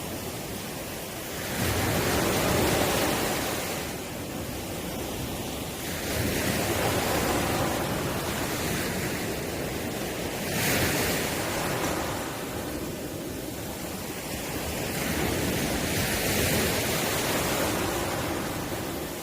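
Ocean waves breaking on the shore, a steady wash of surf that swells and fades about every four seconds.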